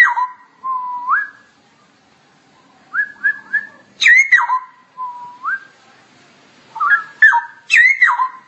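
Straw-headed bulbul (cucak rowo) singing loud, clear whistled phrases. Each phrase is a sharp falling note followed by a held or rising glide, and they come in several bursts with short pauses between them.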